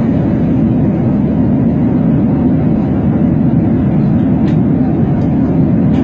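Steady rumble of an airplane in flight, heard from inside the cabin, with a few faint clicks in the second half.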